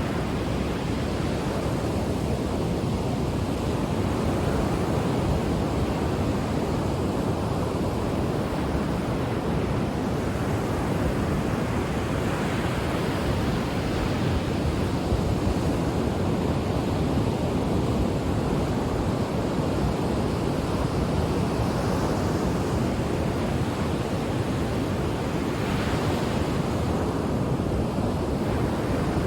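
Ocean surf washing on a shore: a continuous rushing of waves that swells and eases gently, with a brighter, hissing wash about 26 seconds in.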